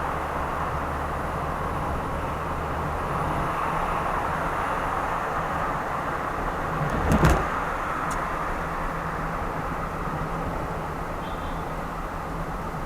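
Steady road and engine noise of a car driving along, with one sharp thump about seven seconds in and a faint click shortly after.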